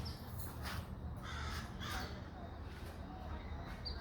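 Outdoor bird calls: a few short, harsh calls in the middle and brief high chirps near the start and end, over a steady low rumble.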